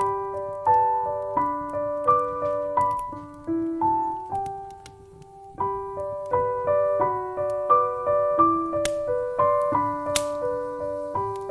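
Solo piano music: a gentle melody of ringing, decaying notes over a low accompaniment, easing to one quiet held note about halfway through before the tune picks up again.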